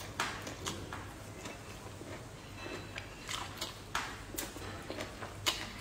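Close-miked eating sounds: chewing with irregular wet mouth clicks and smacks as small fried crucian carp is bitten and chewed.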